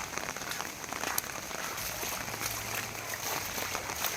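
Steady rain, with the patter of many individual drops. A faint low hum comes in about halfway through.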